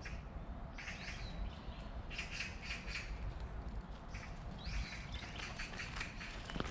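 Birds calling in several short bursts of chirps and squawks, some sliding in pitch, over a steady low rumble.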